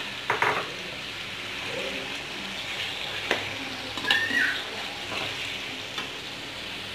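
Raw chicken pieces sizzling in hot oil in a metal karahi, stirred with a metal slotted spoon. The spoon scrapes and knocks against the pan a few times, near the start and again about three to four seconds in.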